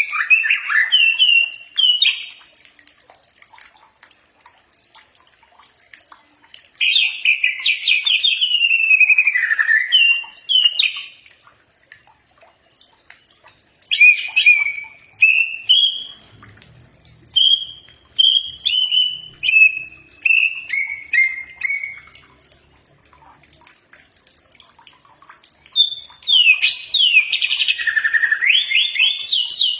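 Green leafbird (cucak ijo) singing in four bursts of quick, varied whistles and glides with pauses between them; the third burst is a run of short notes stepping downward.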